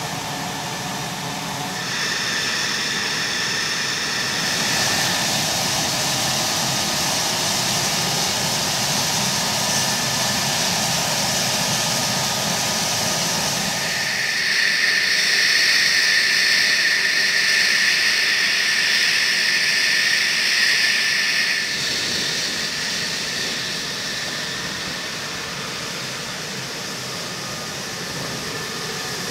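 F-16's turbofan engine running at idle with a steady high-pitched whine over a rushing roar. It grows louder and sharper for several seconds about halfway through, then settles back.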